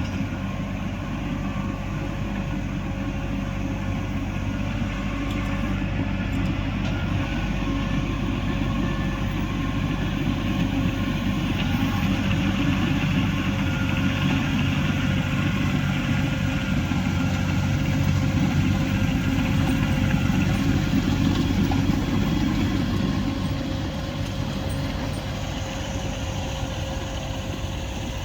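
New Holland tractor engine running steadily while plowing snow, its note growing somewhat louder through the middle stretch and easing back near the end.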